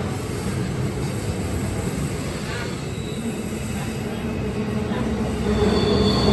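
A train rolling past with a steady rumble of wheels on rail. High-pitched wheel squeal starts near the end.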